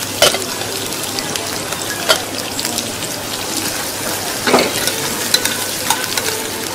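Steady sizzle of food frying in pans on gas burners, broken by a few sharp clinks, the loudest about four and a half seconds in.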